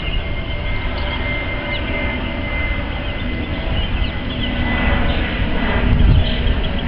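Jet airliner flying over: a steady low rumble with a thin high whine, growing louder toward the end.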